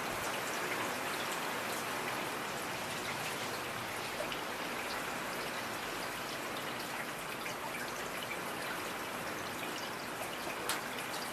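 Steady rain falling, a constant hiss of rain with many separate drop ticks scattered through it and one louder drop near the end.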